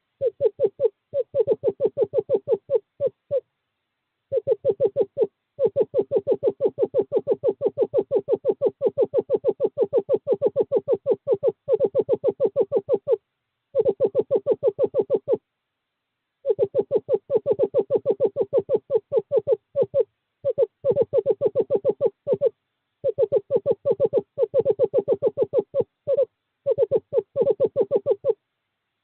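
Male screech owl giving long, even trills, rapid notes on one steady pitch, calling a female to the nest box in courtship. The trills run several seconds at a time, broken by short pauses.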